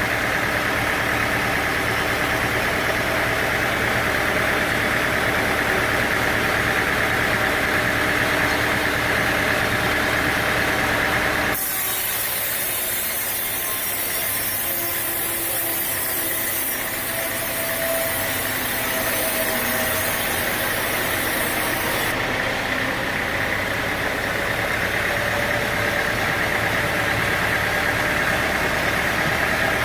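Sawmill machinery running steadily: an engine drone with a steady higher hum. About twelve seconds in it changes abruptly to a thinner, hissier noise for about ten seconds, then switches back to the drone.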